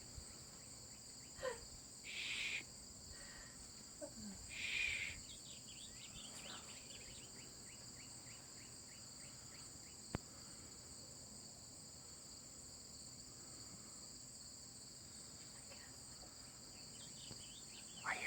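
Steady insect chorus, crickets or similar, holding two constant high-pitched tones throughout, with a few brief louder rustling sounds around two and five seconds in.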